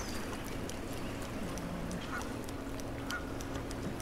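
Short bird calls, repeated roughly once a second, over a faint steady hum and scattered light ticks.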